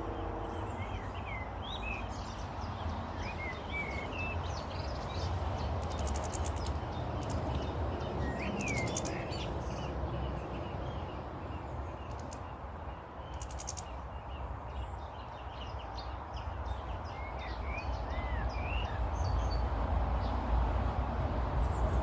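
Small garden birds chirping and calling on and off, with short high trills now and then, over a steady background rumble.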